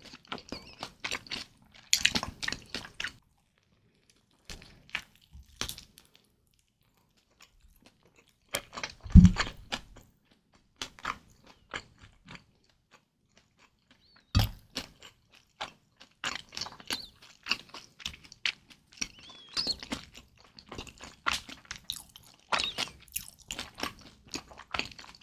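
Close-miked eating sounds of kimchi dumplings being bitten and chewed, wet and clicky, in bursts broken by pauses of a few seconds. There is one louder low thump about nine seconds in.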